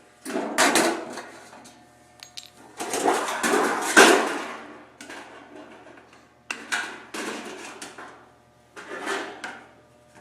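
Hand snips cutting sheet-metal duct, notching the pieces for a three-piece elbow. The cutting comes in four bursts of crunching strokes with sharp clicks, the loudest about three to four seconds in.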